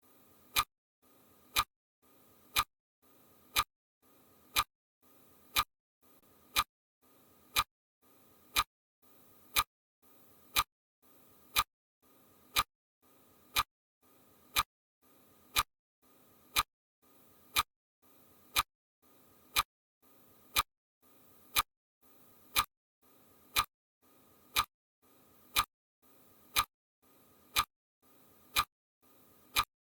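Sharp ticks at an even pace of about one a second, like a clock ticking.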